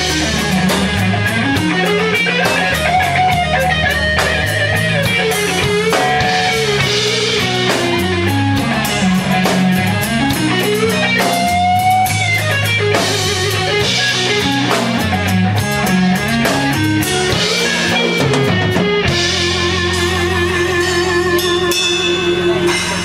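Blues-rock band playing live in an instrumental break: a lead electric guitar plays a melody with bends and slides over bass and drums, ending on a fast trilled note.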